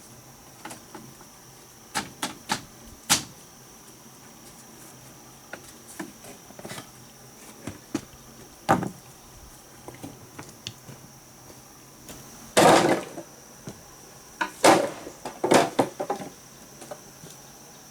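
Irregular knocks and thuds of wood being struck and handled, a few single hits spread out, with a longer scraping rustle about two-thirds through and a quick cluster of knocks near the end. A steady high insect drone runs underneath.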